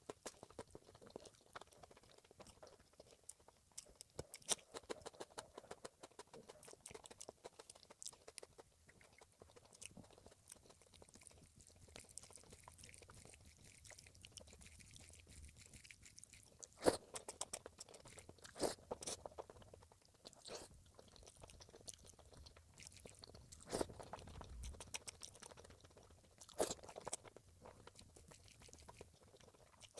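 Close-miked eating: quiet chewing and crunching of food, with a few sharper, louder crunches or clicks in the second half.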